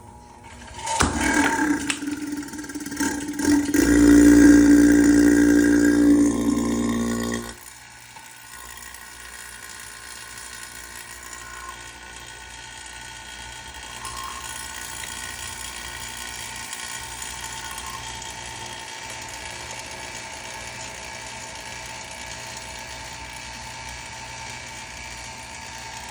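Electric pumps of a homemade furnace running: a loud steady motor hum for about six seconds cuts off suddenly, then a quieter steady mechanical whirring with a thin whine carries on.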